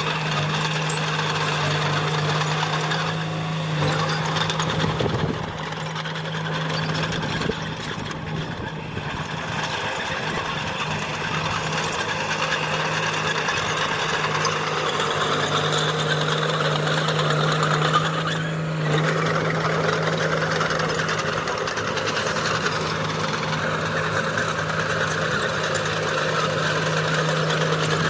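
Diesel engine of heavy earthmoving machinery running steadily under load, a constant low drone with a rough mechanical rattle on top; it eases briefly about a quarter of the way in, and there is a single sharp knock a little after halfway.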